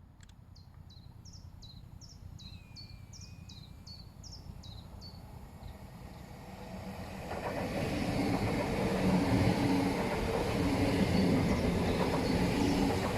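A train approaching and passing, growing loud from about seven seconds in, with a steady hum under the rail noise. Before that, a bird calls with a quick series of short falling notes over a low rumble.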